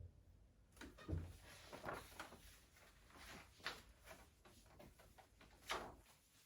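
Near silence at the piano between pieces: faint rustles and light knocks of handling, with a soft thump about a second in and a sharper click near the end.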